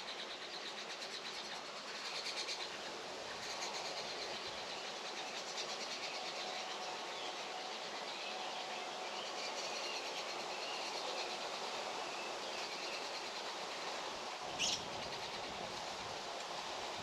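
Steady rushing outdoor noise with faint bird twittering, and one short, sharp bird call about three seconds before the end.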